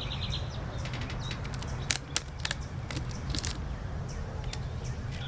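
Small birds chirping in short, scattered calls over a steady low background rumble, with two sharp clicks close together about two seconds in.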